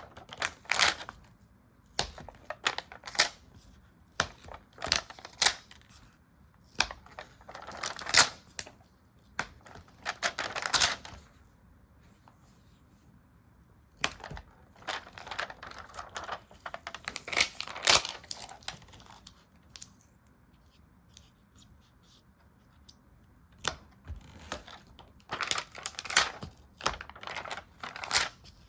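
Stickers being peeled and pressed down and paper being handled close to the microphone: bursts of crackly rustling and small taps, with short pauses about halfway through and again later.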